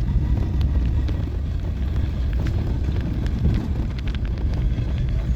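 Vehicle moving, a steady low rumble of engine and tyres with scattered light clicks.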